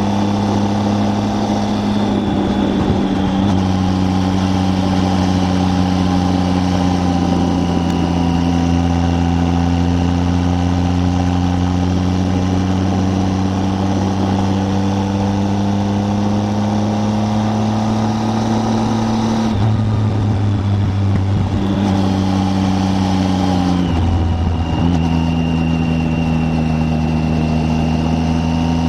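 Triumph Tiger 800's three-cylinder engine running at a steady cruise, its pitch drifting slowly with speed, over an even rush of wind and road noise. The engine note shifts about twenty seconds in and dips sharply and recovers about twenty-four seconds in.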